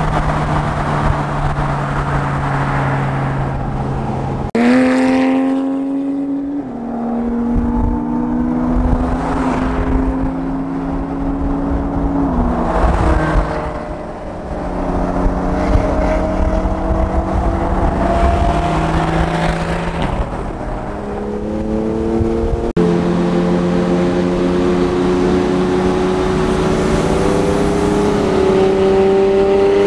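Car engine under way, its note climbing slowly under acceleration and dropping back at gear changes several times. The sound breaks off and changes abruptly twice.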